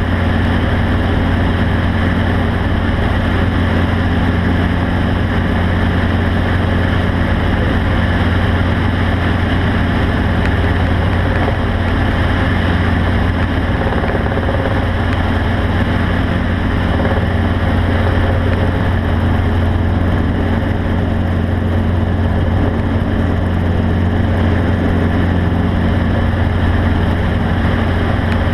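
An engine running steadily at an even speed, with a constant low hum and no change in pitch.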